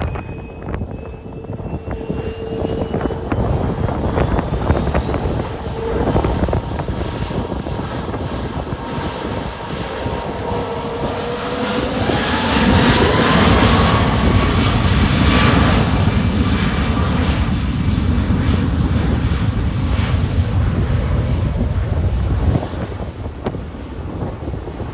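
Airliner engines during a departure: a whine that glides up in pitch as the aircraft passes, loudest from about halfway through and dropping away shortly before the end, with wind buffeting the microphone throughout.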